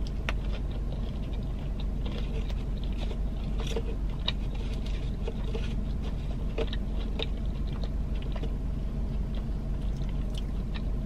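Close-up chewing of a fried mozzarella stick with the mouth closed: soft, irregular wet clicks and small crunches, over a steady low hum.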